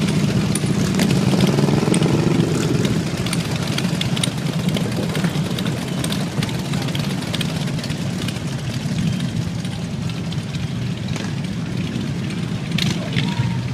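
Motorcycle engines running steadily, with one engine's pitch rising and falling about two seconds in.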